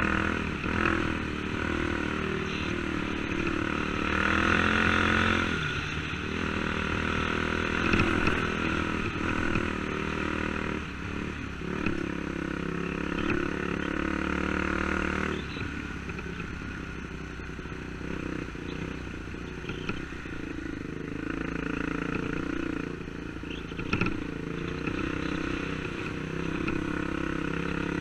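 Dirt bike engine running under way, its revs rising and falling, with occasional knocks and rattles.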